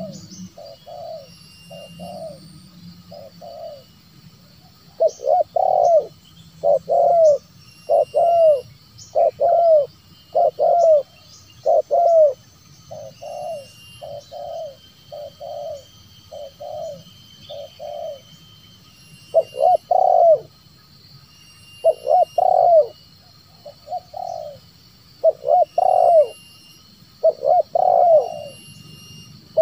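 Spotted doves cooing in repeated rhythmic phrases of several notes. Loud phrases alternate with fainter ones, as of a near bird and a farther one answering. Faint high chirps of other small birds sound in the background.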